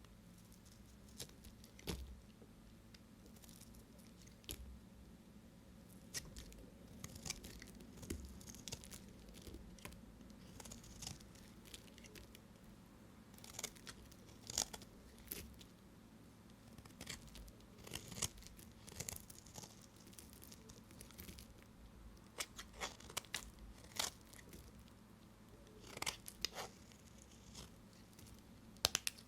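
Knife cutting dry bar soap: irregular crisp crunches and crackles, some in quick clusters.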